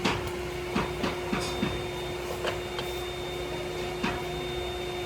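Factory machinery running with a steady hum, with several sharp knocks or clanks at uneven intervals, most of them in the first two seconds.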